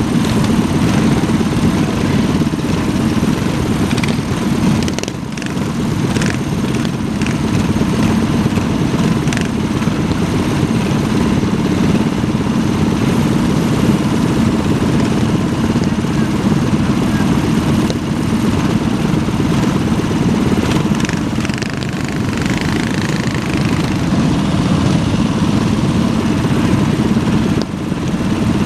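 Minibike engines running steadily, with a few short sharp clicks about five to nine seconds in.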